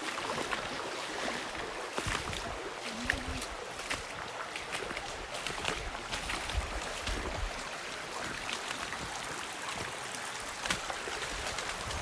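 Steady rush of a mountain stream, with scattered short clicks and knocks and a few low rumbles over it.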